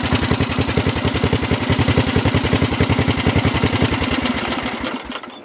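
Small lawn tractor engine running at a steady idle through an aftermarket exhaust, its firing pulses even and regular, then shut off and winding down to a stop near the end. It runs clean.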